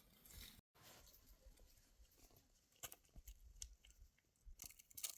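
Near silence with faint, scattered clicks and rustles, and a brief total dropout near the start.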